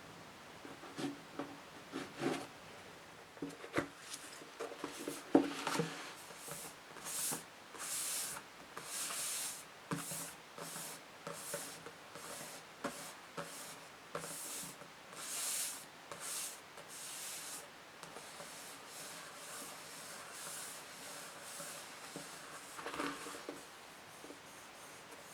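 Scratching and tapping on books: a few sharp taps in the first several seconds, then a run of short, hissy scratching strokes that quieten in the last third.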